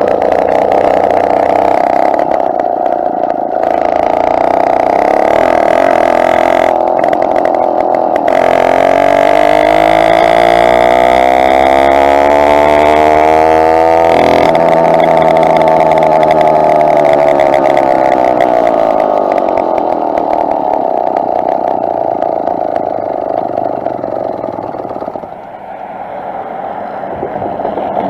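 Two-stroke engine of a motorized bicycle running under way. Its pitch climbs for several seconds, drops sharply about halfway through, then eases down. It dips when the throttle backs off near the end and picks up again.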